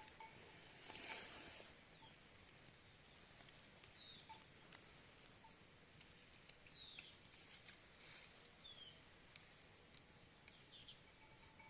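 Faint bird chirps: short, downward-sliding calls every two seconds or so, with scattered light ticks and a short burst of noise about a second in.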